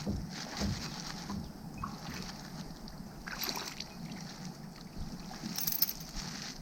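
Light knocks and faint water sounds from a fishing kayak on the water, with two short hissing splashes, one past the middle and one near the end.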